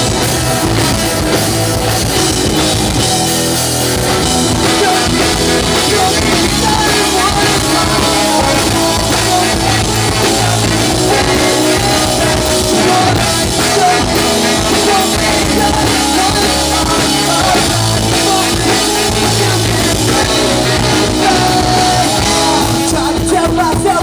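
Punk rock band playing live: a loud instrumental passage, drum kit driving under the band, without clear lead vocals.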